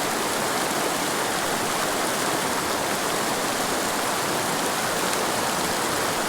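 Mountain river water rushing steadily, an even hiss with no change in level.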